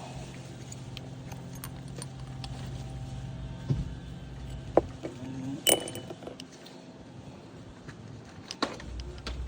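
Scattered sharp clinks and clicks of small metal parts and tools being handled while a lawn mower carburetor is taken apart, over a steady low hum.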